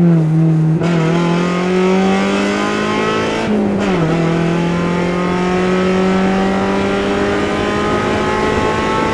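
Mazda Miata's four-cylinder engine pulling hard under full acceleration, its pitch climbing steadily, dropping at an upshift about three and a half seconds in, then climbing again through the next gear.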